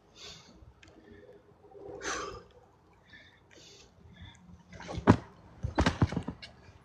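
A few sharp thumps, the loudest about five seconds in and a cluster around six seconds, after some short breathy noises.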